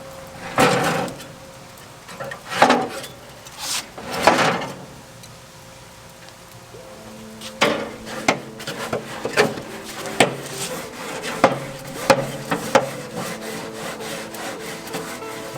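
Four loud rasping scrapes in the first few seconds, then a quick run of sharp knocks and clicks, like wood or metal being handled and rubbed.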